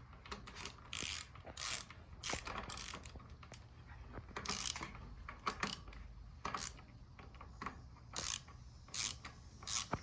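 Ratchet wrench clicking in short, irregular bursts as the fork's air-chamber top cap is tightened down.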